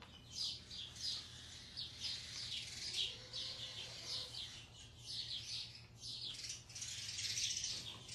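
Small birds chirping, a steady stream of short high chirps several times a second.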